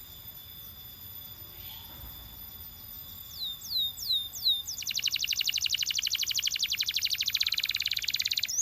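Canary singing: faint thin held notes, then four quick falling whistles, then a loud, very fast, even trill for the second half.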